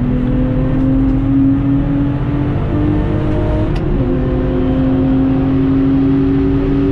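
Lexus IS200's stock 1G-FE straight-six accelerating hard, heard from inside the cabin, its pitch climbing slowly. About four seconds in the pitch drops sharply with a quick upshift, and then it climbs again.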